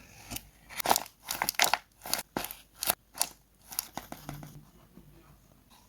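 Paper crinkling in a quick run of short, crackly bursts, dying away after about four seconds.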